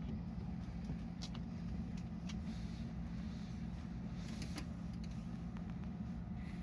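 Steady low hum of a stationary JR West 223 series electric train's onboard equipment, heard inside the car, with a few faint clicks.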